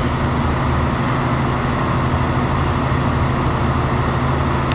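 A motor vehicle's engine running steadily close by: a loud, even low drone.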